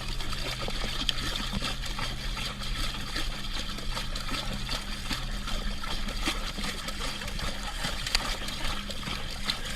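Water trickling and splashing in many small splashes, over a steady low hum.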